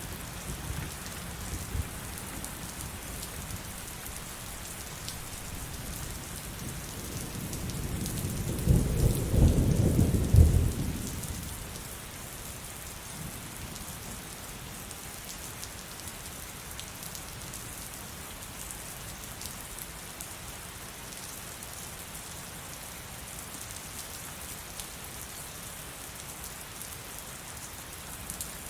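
Steady heavy rain falling, with one rumble of thunder that swells about eight seconds in, peaks as the loudest sound, and dies away a few seconds later.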